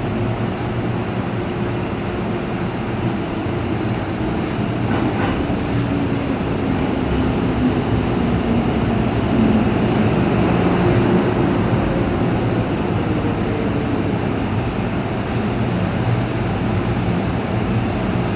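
MTR Island Line train standing at a platform: a steady rumble with a low hum from its on-board equipment, swelling slightly about halfway through.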